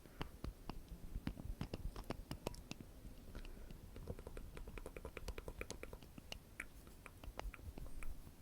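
Close-miked ASMR mouth sounds: a string of soft, wet clicks and smacks at an uneven pace, with a quicker run of clicks in the middle.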